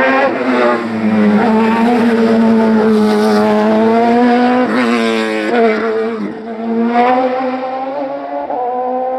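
Racing car engine running hard at high revs on a hillclimb, a steady note broken by sharp pitch shifts a few times, around five and seven seconds in.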